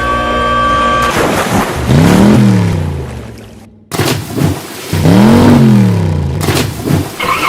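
Vehicle engine sound effects: a pitched tone that swoops up and holds, then two engine revs, each rising and falling in pitch, with an abrupt cut between them.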